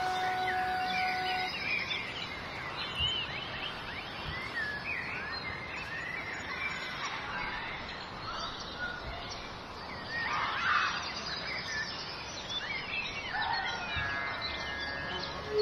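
Several small birds chirping and twittering in many short, quick calls over a steady background hiss.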